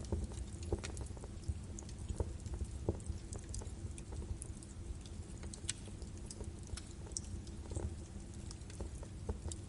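Birch wood fire burning in a fireplace, crackling and popping irregularly over a steady low rumble of the flames.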